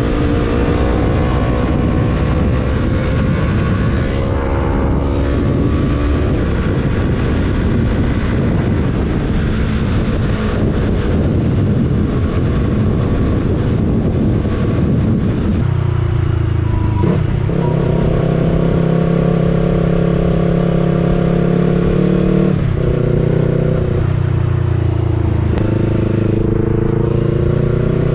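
Yamaha R3's parallel-twin engine running on the move with a rush of wind noise. The engine note falls early on, then about halfway through it turns into a clearer, lower note that steps up and down in pitch several times with throttle and gear changes.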